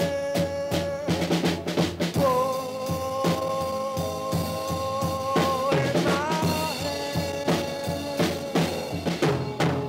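Instrumental passage of a band's song: a drum kit keeps a steady beat while a lead instrument holds long sustained notes, changing pitch a little after the middle.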